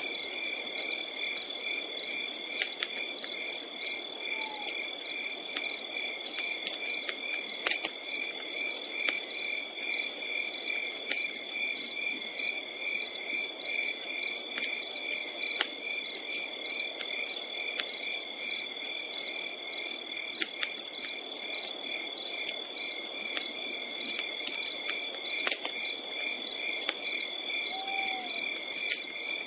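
Crickets chirping in a steady, rhythmic chorus of high pulsing trills, over a campfire crackling with scattered sharp pops, a couple of them louder.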